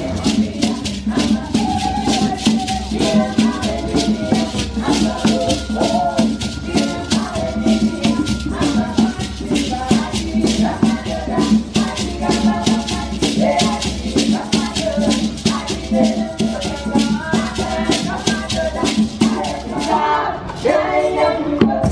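Live African-style music: fast, steady shaking of hand shakers or rattles with voices singing over it.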